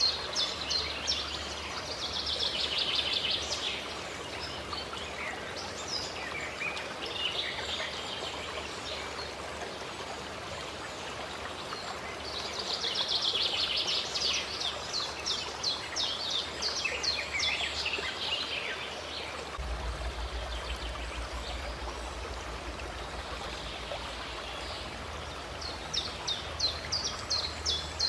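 Steady running water, with a songbird singing short, quick trilled phrases every few seconds over it.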